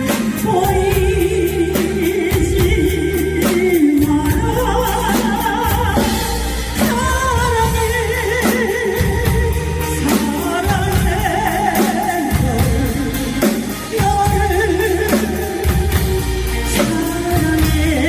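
Background song: a singer with a wavering, vibrato-laden voice over a steady beat and heavy bass.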